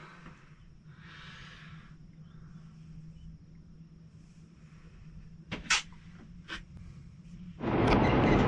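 A few light clicks and knocks over a low steady hum, then near the end a loud, even rushing noise cuts in abruptly: a vehicle's road and engine noise while driving.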